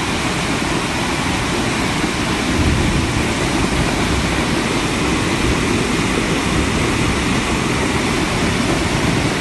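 Loud, steady rushing noise, unbroken and without any distinct tone or rhythm.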